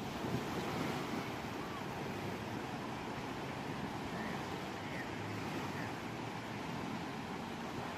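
Ocean surf: waves breaking and washing in a steady, continuous rush.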